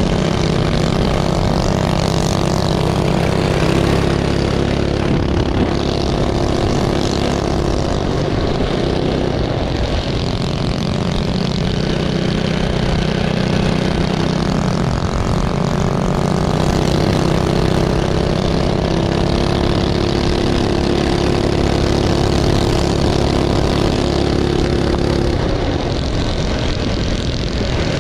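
Small minibike engines running hard around a circle track, their pitch rising and falling as they throttle on and off through the turns.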